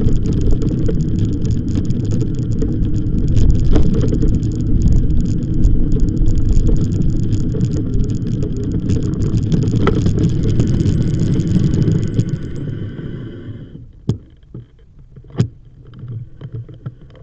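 Loud wind rush and rolling noise on the microphone of a moving bicycle, dying away about thirteen seconds in as the bike slows. Two sharp clicks follow.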